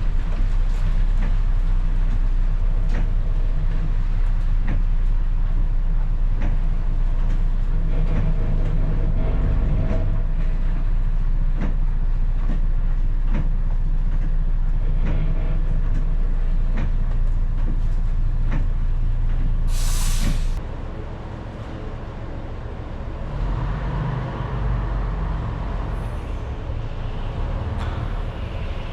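Scania BR111 bus's diesel engine running steadily at idle. About twenty seconds in comes a short burst of compressed-air hiss from the air brakes, and the engine's steady hum stops, leaving a quieter, rougher low rumble.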